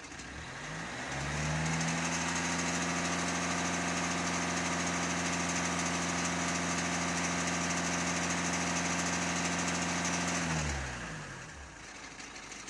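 Citroën C3 car engine revved up, held steady at raised revs for several seconds, then let fall back to idle. It is making an abnormal noise after the car took a hit on the road, which the owner traces to an engine mount broken in two.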